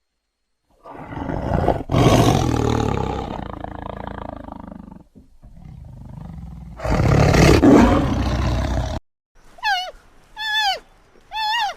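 A large animal roaring: a long, loud roar begins about a second in and fades into a lower rumble, and a second roar comes about seven seconds in. Near the end, three short whistled calls, each falling in pitch, repeat about once a second.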